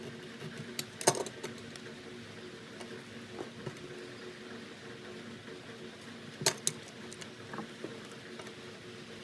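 Metal parts and tools being handled: a few sharp clicks and clinks, the loudest about a second in and a pair near the end, over a steady low hum.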